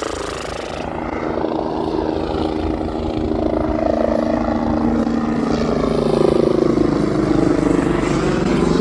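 Police helicopter flying in. Its rotor and engine grow steadily louder, and its tones slide in pitch as it passes.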